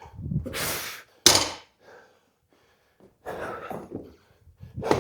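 Hard, gasping breaths of an athlete winded mid-workout, with one sharp thunk a little over a second in, typical of a 95 lb barbell being set down after the last power snatch of the set.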